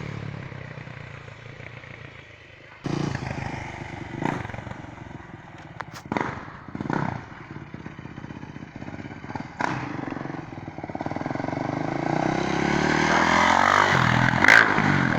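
Yamaha YZ426F single-cylinder four-stroke dirt bike engine, revved in short blips, then pulling harder and coming closer over the last few seconds, its note rising and falling as it passes. There is one sharp knock near the end.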